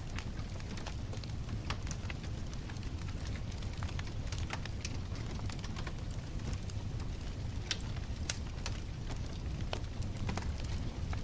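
Wood bonfire crackling, with many irregular sharp snaps and pops over a steady low rumble.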